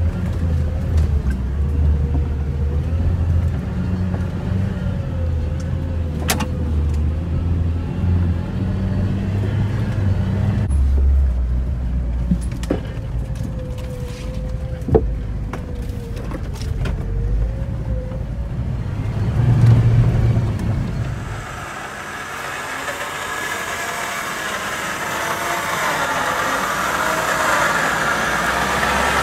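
Off-road 4x4's engine running at low speed while crawling a rough forest track, heard from inside the cab, with a few sharp knocks from the bumps. About two-thirds of the way through, the deep rumble cuts away to a thinner, hissier engine and outdoor sound.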